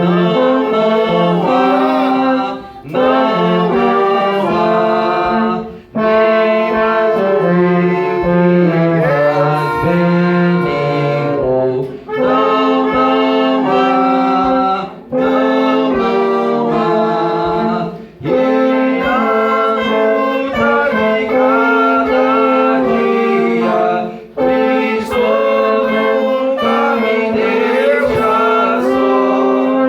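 Church wind band with brass and saxophones playing an instrumental hymn. Held melodic phrases are broken by short breathing pauses every few seconds.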